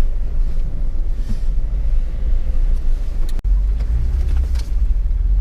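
Low, steady rumble of a 4x4's engine and drivetrain heard from inside the cabin as it creeps down a slippery, muddy trail, with a few faint knocks from the body and suspension. The sound cuts out for an instant a little past halfway.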